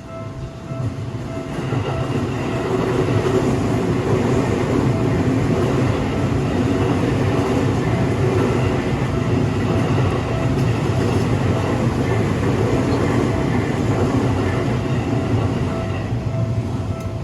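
Seibu Railway electric commuter train passing over a level crossing. The rumble and wheel noise build over the first two seconds, hold steady for most of the pass, then ease off near the end.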